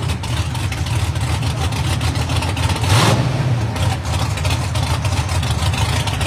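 Drag car's engine running with a deep, steady rumble as the car creeps forward, with a brief rise in revs about three seconds in.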